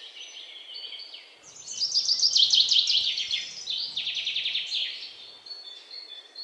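Birds singing: rapid trills of quickly repeated high notes, the loudest from about one and a half to three seconds in and another around four seconds, then thinner high chirps toward the end.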